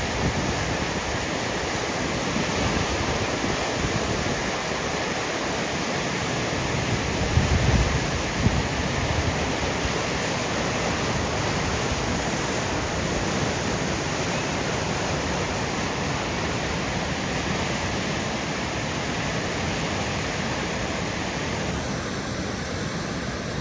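Steady rushing of flowing water, with wind gusting on the microphone about seven to eight seconds in.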